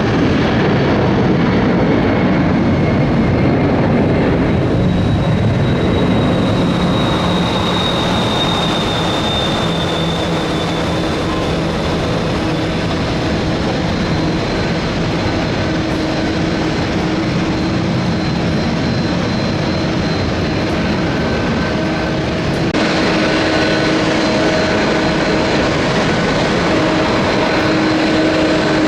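Jet engines of a Boeing 757-300 at takeoff thrust, a steady rush with a high whine that slides slowly lower as the jet departs. About 23 seconds in it cuts to an Airbus A320's engines holding a steady whine before its takeoff run.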